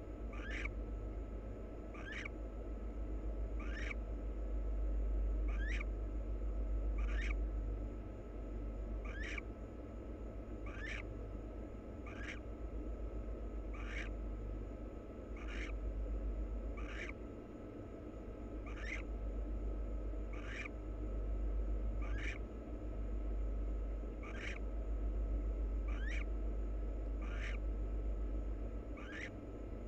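Barn owl giving short raspy hissing calls, repeated about once a second, over a steady low electrical hum.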